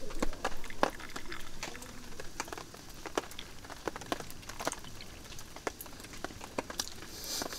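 Rain dripping: scattered drops tapping irregularly, several a second, over a faint hiss of rain, with a brief louder hiss near the end.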